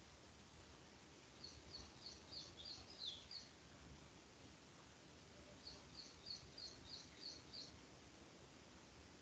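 Faint bird chirping over low background hiss: two runs of quick, high chirps, about four a second, the first ending on a short falling note.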